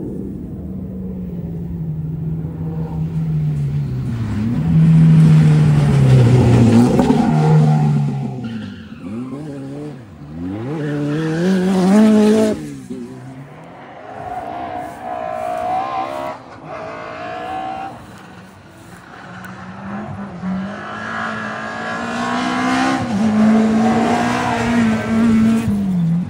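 Rally car engines revving hard as the cars pass one after another, the pitch climbing and falling away with each car. Tyres squeal as they slide.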